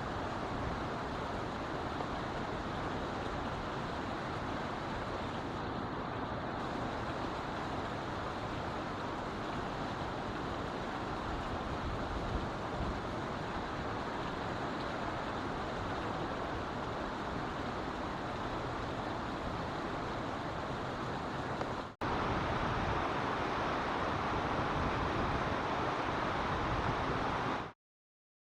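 Steady outdoor rushing noise with no distinct events, about −37 dB. A cut about 22 s in leads to a slightly louder stretch, and the sound stops abruptly near the end.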